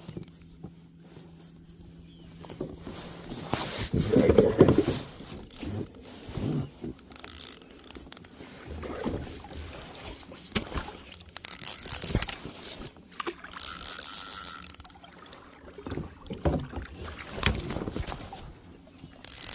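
Irregular knocks, rubs and rustles of someone moving about and handling fishing gear in a kayak, with short hissy patches now and then.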